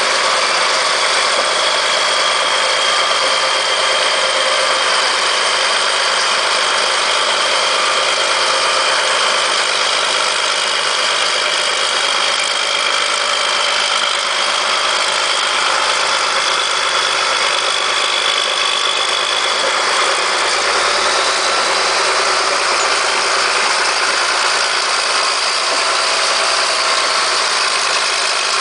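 Caterpillar D7H bulldozer's diesel engine running steadily, with a steady high whine that fades about two-thirds of the way through.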